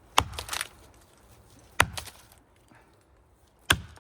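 Axe strikes into the hardwood trunk of a big maple, chopping out the undercut: three heavy chops about two seconds apart, the first followed by a brief rattle of flying chips.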